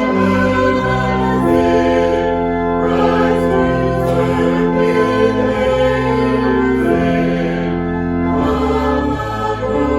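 Sacred choral music with organ: sustained chords over a bass line that changes note about every second.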